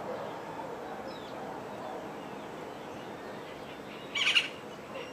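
Wild birds calling, with faint chirps over a steady background hiss, then one loud, harsh call about four seconds in.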